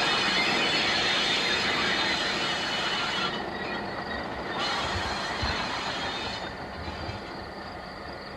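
Freight train cars rolling along the track, a steady wheel-on-rail rumble that slowly fades through the second half.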